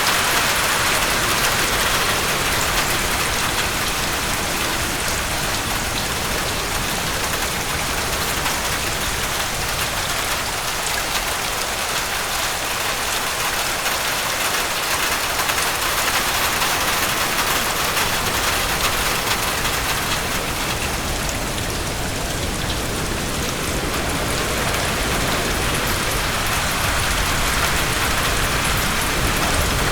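Steady heavy rain pouring down, an even hiss of countless drops that eases slightly about two-thirds of the way through.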